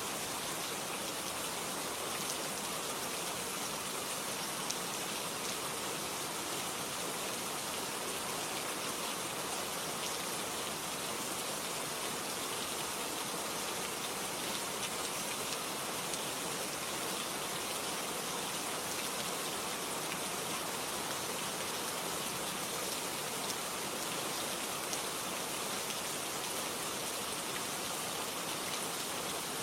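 Steady rain falling on a surface, an even hiss flecked with individual drop ticks.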